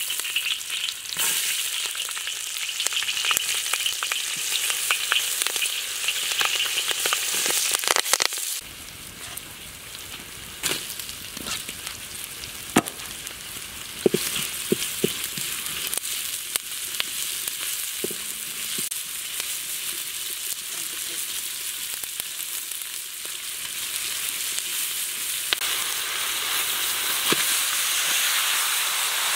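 Food sizzling in hot oil in a steel wok, with a spatula knocking and scraping against the metal as it is stir-fried. The sizzle drops suddenly about eight seconds in and grows louder again near the end.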